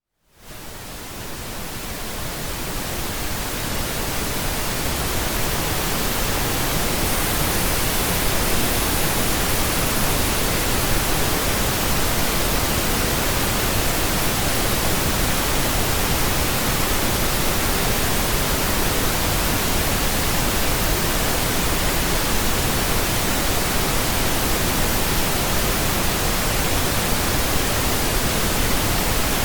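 Synthetic pink noise: a steady, even hiss that fades in from silence over the first few seconds.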